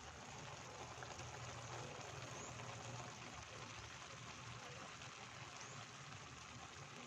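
Stir-fried long beans and noodles cooking in a pan on the stove: a soft, steady sizzling hiss.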